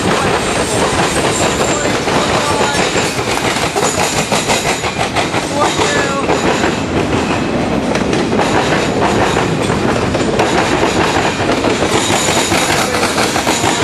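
Freight train of tank cars and flatcars rolling past close by: a steady loud rumble with the wheels clattering over the rail joints.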